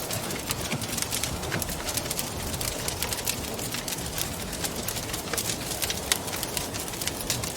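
Wood fire crackling, with many sharp irregular pops and snaps over a steady rush of wind.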